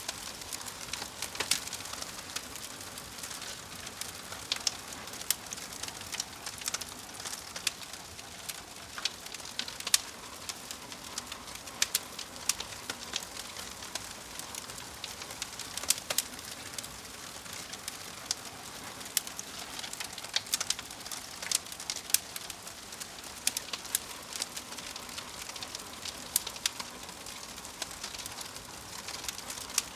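Log fire crackling: irregular sharp pops and snaps, one or two a second, over a soft steady hiss of burning wood.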